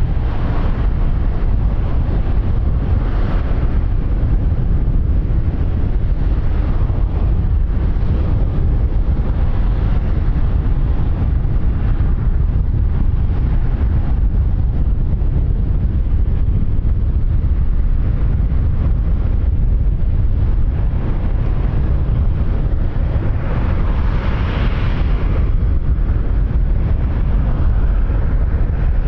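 Wind buffeting the microphone: a steady rumbling rush, with a brief stronger hiss a few seconds before the end.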